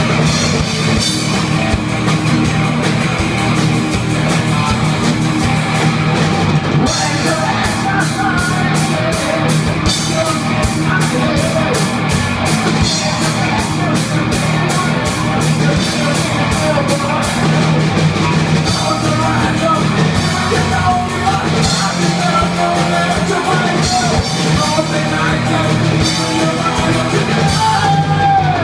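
Thrash metal band playing: distorted electric guitars over a drum kit. A few seconds in, the drums settle into a fast, even cymbal-and-drum beat that runs for about ten seconds.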